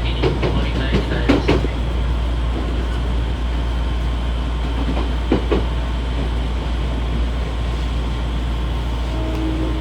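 Odakyu 1000 series electric train running, heard from inside motor car DeHa 1018: a steady rumble of wheels on rail with a few clacks over rail joints in the first two seconds and one more about five seconds in. A steady hum comes in near the end.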